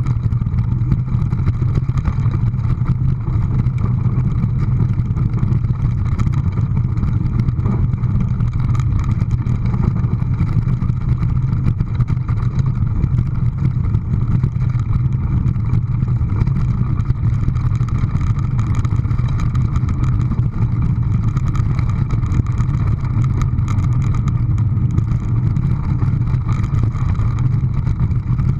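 A steady, unchanging low rumble, like a running engine or vehicle.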